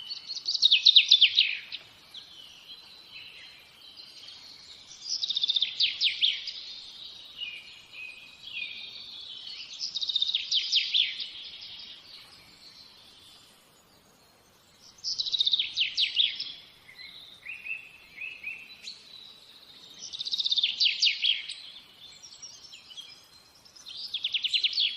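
A songbird singing the same short phrase over and over, about every five seconds: each phrase is a quick run of high notes lasting a second or two.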